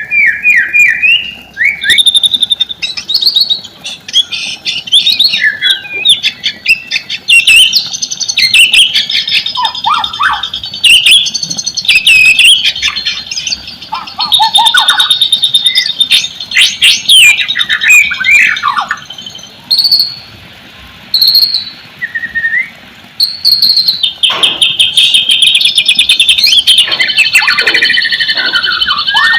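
White-rumped shama (murai batu) singing a loud, varied song of clear whistles, slurred notes and fast chattering trills, with a couple of brief pauses about two-thirds of the way through.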